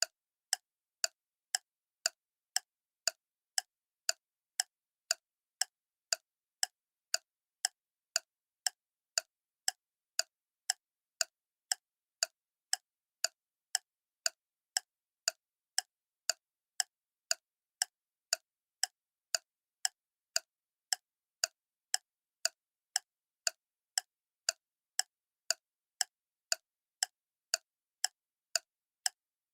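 Clock ticking steadily, about two crisp, even ticks a second.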